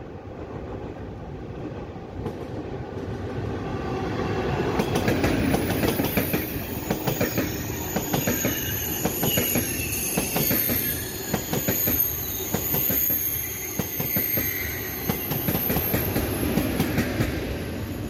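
TGV 2N2 double-deck high-speed trainset passing close by. Its rumble builds from about four seconds in, then comes a dense run of wheel clacks over the rails with high whining tones above, fading near the end.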